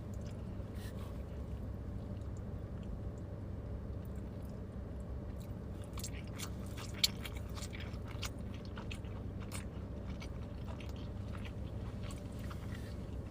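Close-up eating sounds: people chewing and biting into pizza and garlic bread, with scattered small crunchy clicks and one sharp click about halfway through, over a steady low hum.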